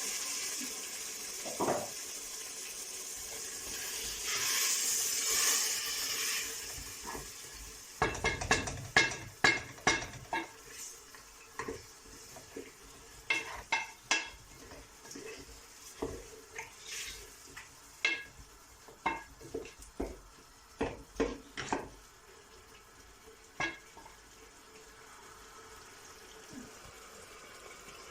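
A spoon stirring soup in a pot, knocking and clinking irregularly against the pot's sides. It is preceded by several seconds of steady hiss.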